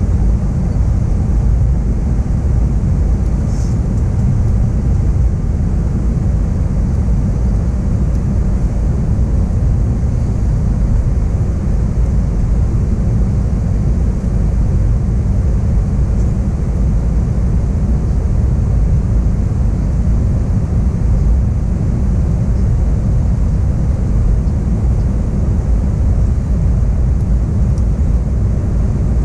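Steady low rumble of engine and airflow noise inside an Airbus A321 cabin in flight.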